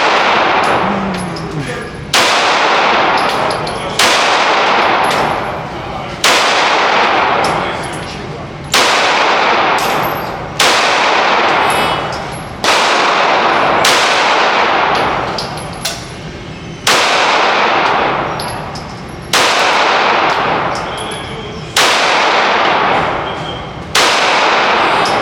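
Gunshots fired at a steady pace, about one every two seconds, roughly ten in all; each sharp report is followed by a long echoing tail.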